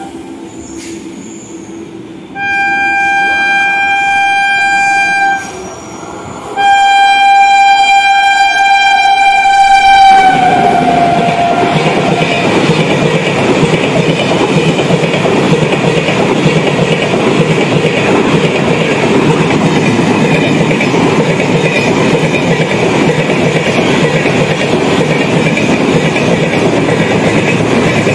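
WAP-7 electric locomotive's horn sounding two long blasts, the second dropping in pitch as the locomotive passes close by. Then the steady noise of an express's LHB coaches passing at speed.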